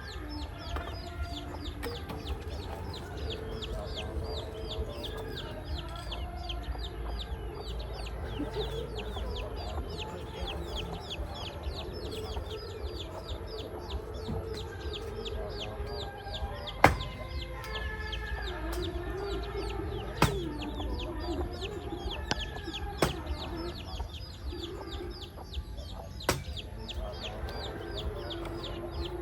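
Chickens clucking, over a fast, unbroken run of high chirps. A few sharp knocks cut through, the loudest about seventeen seconds in.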